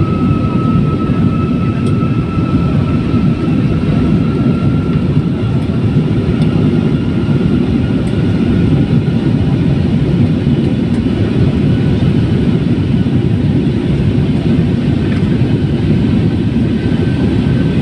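Jet airliner cabin noise: the steady deep rumble of the engines and airflow, with a thin whine above it that rises slightly in pitch and fades over the first few seconds.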